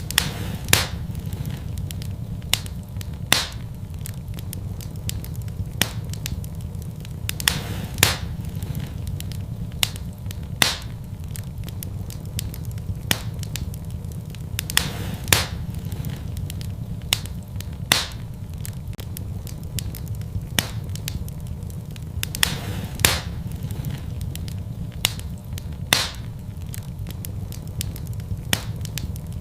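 Fire burning in a fireplace: a steady low rumble with sharp crackles and pops at irregular intervals, roughly every one to three seconds.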